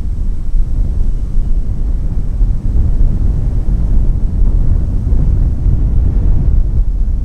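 A passenger train passing over the level crossing, heard as a steady, loud, low rumble, with wind buffeting the microphone.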